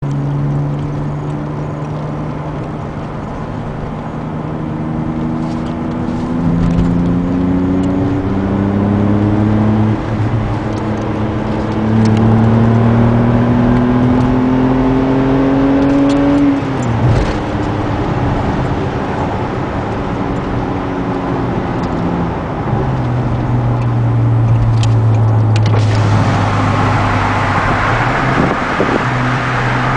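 BMW E60 530's straight-six engine and exhaust accelerating at wide open throttle, the pitch climbing and dropping back at several upshifts, then holding steady. About 26 seconds in, wind and road noise swell as the car's windows come down, heard from inside the cabin.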